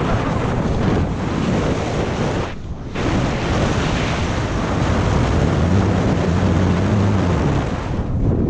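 Alfa Romeo GT 1600 Junior's twin-cam four-cylinder engine running on the move, heard from inside the car over heavy road and wind noise. There is a brief dip in the noise about two and a half seconds in, and the engine note rises and falls again in the second half.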